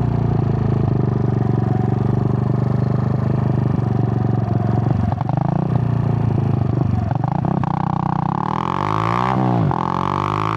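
Suzuki GN125's single-cylinder four-stroke engine running steadily under way, then revving up about three-quarters of the way through, dropping sharply for a moment and climbing again.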